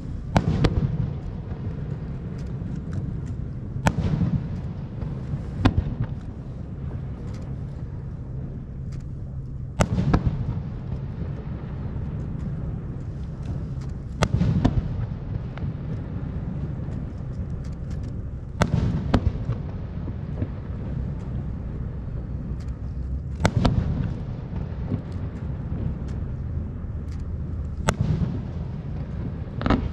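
Aerial fireworks shells bursting in a steady series, a sharp bang about every four to five seconds, about eight in all, with a low rumble between them.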